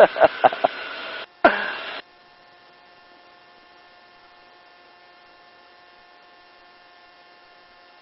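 Helicopter headset intercom feed: two brief bursts of noise with a few sharp crackles in the first two seconds as the mic opens and closes, then a faint steady electrical hum with thin whining tones.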